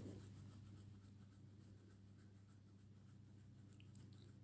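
Near silence: a steady low hum, with a few faint ticks about four seconds in.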